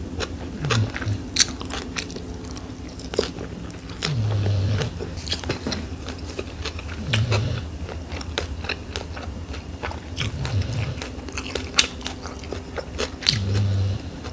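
Close-up eating sounds from chewing a rice-paper shrimp summer roll with lettuce and cucumber: many sharp wet mouth clicks and crunches. A short low hum comes every few seconds.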